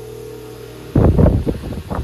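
Antique Peerless 8-inch AC/DC brush-motor fan running with a steady hum. About a second in, a loud, rough buffeting rumble breaks in for over a second, like the fan's airflow striking the microphone.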